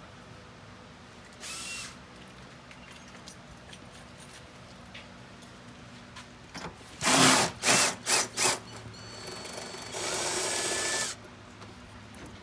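Cordless power tool run in short bursts: a brief spin about one and a half seconds in, four quick loud bursts around seven to eight and a half seconds, then a steady run of about a second near the end, its motor pitch rising as it spins up.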